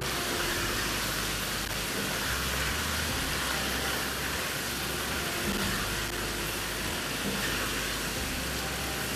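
Fish curry masala sizzling steadily in a pot as the fish pieces are gently stirred in.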